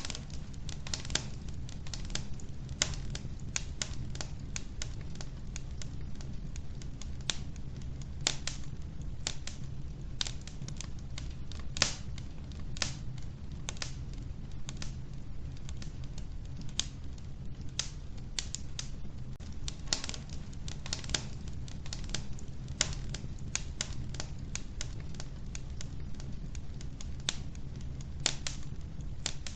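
Wood fire burning in a wood-burning stove: a steady low rumble of flames with frequent, irregular sharp crackles and pops from the logs.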